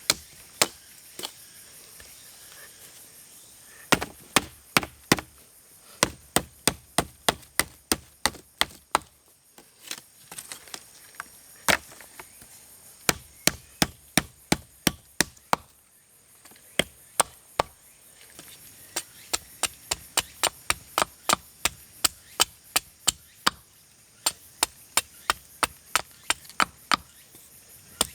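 A hand tool chopping into wood: runs of sharp, quick strokes at about three or four a second, broken by a couple of short pauses. A faint steady insect drone sits behind.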